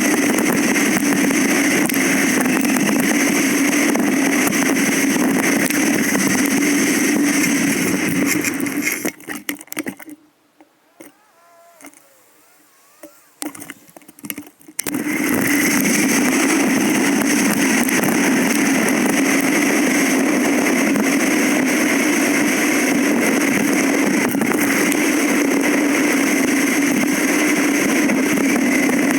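Loud, steady running noise of a bike ride picked up by a GoPro, a constant drone with hiss. About nine seconds in it falls away almost to quiet for some five seconds, then comes back just as before.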